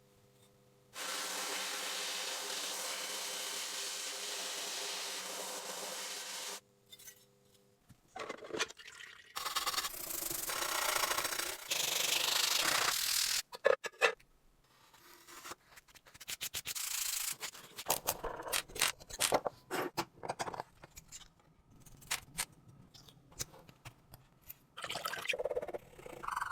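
Restoration work on a toy locomotive: a steady hiss for about five seconds, then irregular bursts of rubbing and sanding strokes with small clicks and knocks.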